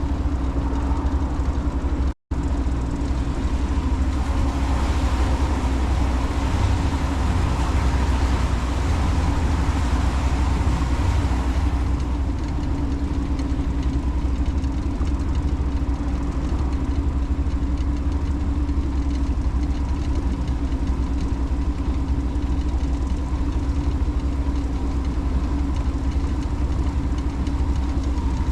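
Motorboat under way: a steady engine drone with the rush of water and wind past the hull, the rushing stronger for the first dozen seconds. The sound cuts out for a split second about two seconds in.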